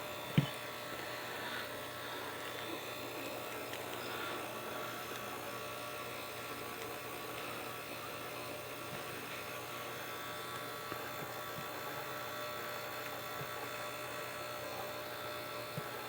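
Steady low electrical hum and buzz, with one sharp knock about half a second in and a few faint ticks later.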